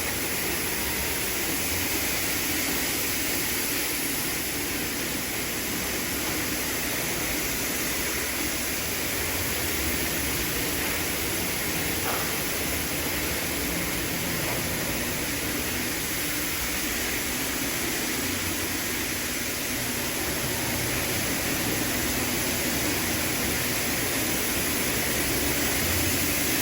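LaserWash touchless car wash spraying its cleaning-cycle water and soap over a car, a steady hiss of spray.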